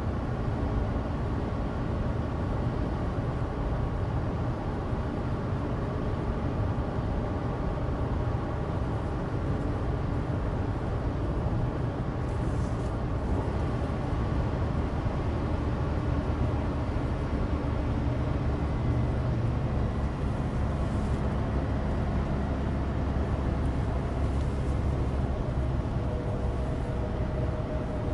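Cabin noise of a Suzuki Alto Turbo RS (HA36S, 660 cc turbocharged three-cylinder, 5AGS gearbox) cruising: a steady engine drone over the rumble of studless winter tyres on dry road.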